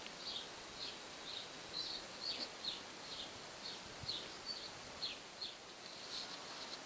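A bird calling over and over: short high chirps that drop in pitch, about two a second, over a faint steady background hiss.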